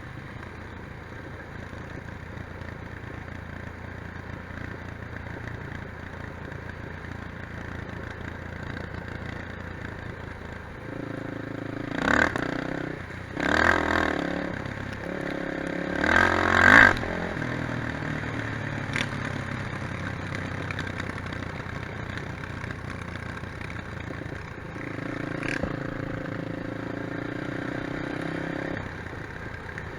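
Quad bike engines running, with three loud revving bursts about halfway through and a steadier engine drone near the end.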